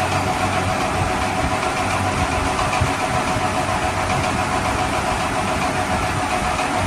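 A steady engine-like running sound, like a vehicle idling, with a low throb that does not change.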